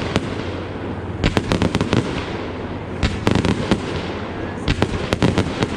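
Aerial fireworks going off: three volleys of rapid sharp cracks and crackling, about a second and a half apart, over a steady background rumble.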